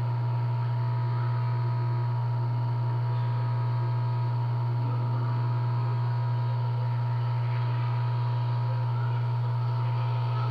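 Hot-air rework station blowing steadily to melt the solder on an SMD resistor, a constant low hum with a thin higher whine above it.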